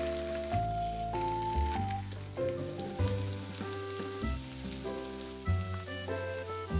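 Egg-battered zucchini slices sizzling and crackling as they fry in oil in a cast-iron pan, fading after the first few seconds, under a steady background music track.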